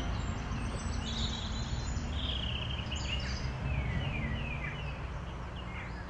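High-pitched bird chirps and short downward-gliding calls over a steady low outdoor rumble.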